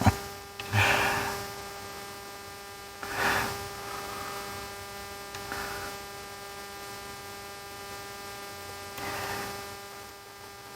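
Steady electrical hum with a constant pitch, broken by a few short soft rustles or breaths about a second in, around three seconds in and near nine seconds.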